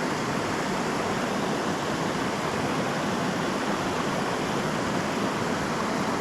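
Creek water rushing, a steady even noise that doesn't change.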